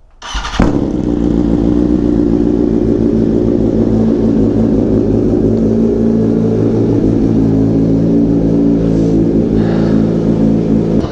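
Motorcycle engine starting about half a second in, then running steadily at a nearly constant speed.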